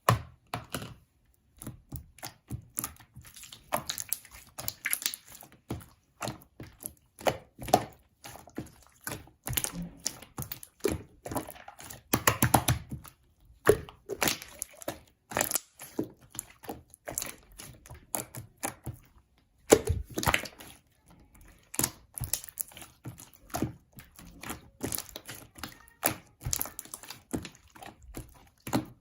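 Slime being squished and poked by hand: an irregular run of sticky clicks and small pops, a few louder than the rest.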